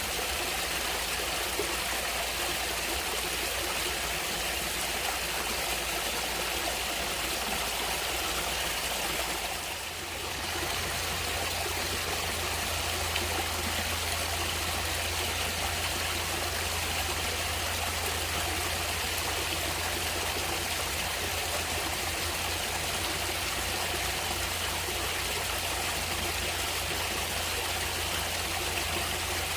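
Natural water running steadily in a stream, an even rushing sound, dipping briefly about ten seconds in before going on with a little more low rumble.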